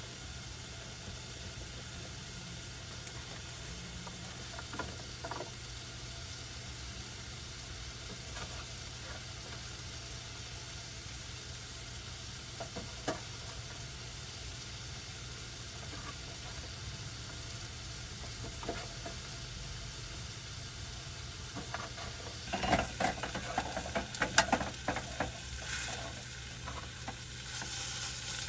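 Food sizzling steadily in a frying pan on a small stove, with a few light clicks and a burst of utensil and cookware clatter near the end.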